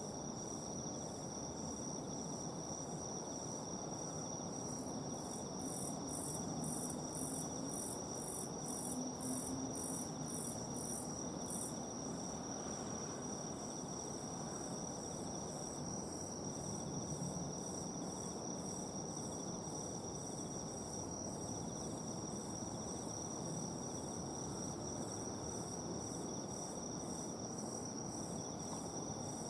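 Night insects calling, crickets among them: one keeps up a steady high trill while another chirps in even pulses about twice a second, louder for a few seconds near the start, over a low background hum.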